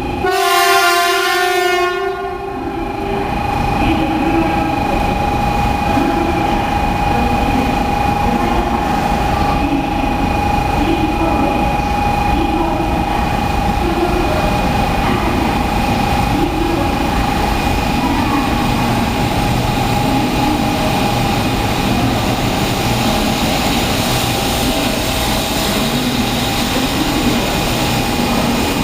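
Recorded 0 Series Shinkansen sounds played by a toy train coin bank: a horn blast lasting about two seconds, then the train's running sound, a steady whine over rolling rail noise.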